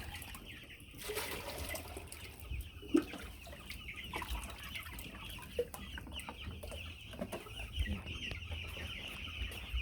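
A flock of young broiler chicks peeping continuously, many high chirps overlapping, with one sharp knock about three seconds in.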